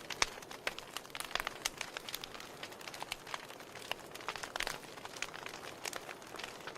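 Wood fire in a fireplace crackling: frequent irregular sharp pops and snaps from burning logs over a soft hiss.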